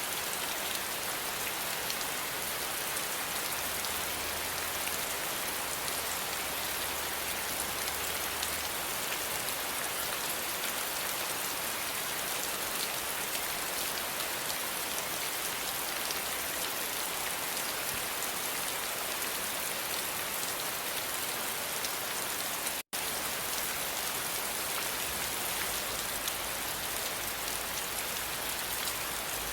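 Steady rain falling, an even hiss of drops that cuts out for an instant about two-thirds of the way through.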